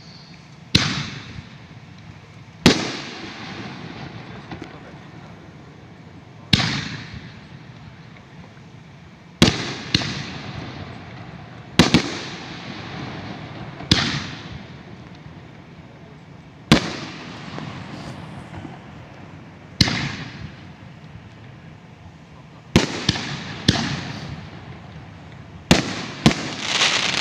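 Aerial fireworks from a multi-shot cake, fired one after another. Each shell bursts with a sharp bang and a trailing echo, the shots coming every one to three seconds, sometimes in close pairs. Near the end they bunch into a quick cluster with crackling.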